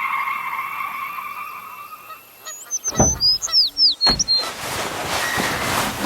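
Sound-effect sequence: a steady tyre-skid squeal fades out, then about halfway through comes a quick run of high, squeaky falling tones mixed with sharp knocks, then a noisy rush with thuds.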